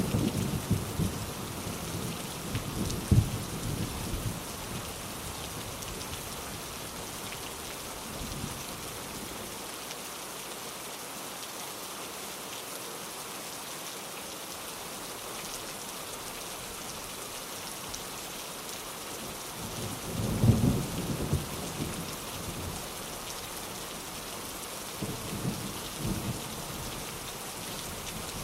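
Steady rain falling, with thunder rumbling in the first few seconds, the loudest roll about two-thirds of the way through, and a softer rumble near the end.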